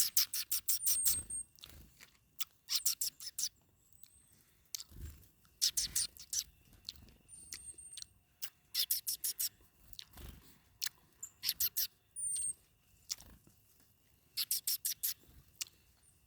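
A bird eating seed close by, pecking and crunching in quick runs of sharp clicks, with a few brief high-pitched squeaks and occasional soft low thumps.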